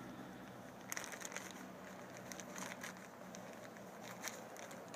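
Faint, scattered clicks and rustles of hands handling cordage and the wooden trap parts while trying to thread a thick cord through a loop.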